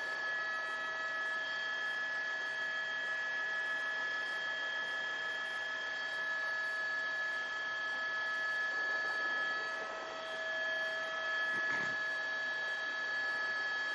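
Steady high whine and hiss of an A-Star helicopter's turbine and rotors, heard inside the cabin through the crew's open microphone. There is a short knock near the end.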